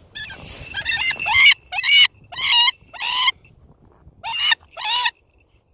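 A bird calling repeatedly: about eight short, harsh, pitched calls, in a run of five and then, after a short pause, two more.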